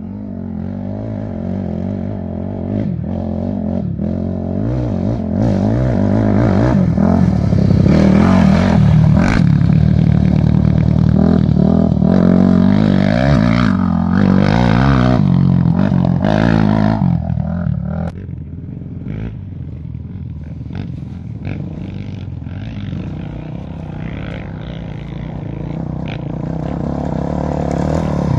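A motor vehicle's engine running loudly, its pitch wavering and rising and falling, with a sudden drop in level about two-thirds of the way through and a build-up again near the end.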